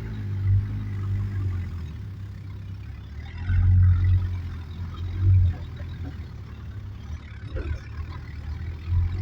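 Vehicle engine running with a low hum, revving up briefly twice near the middle.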